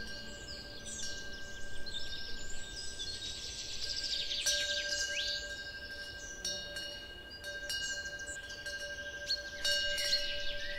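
Chimes ringing steadily, with birds chirping and twittering over them.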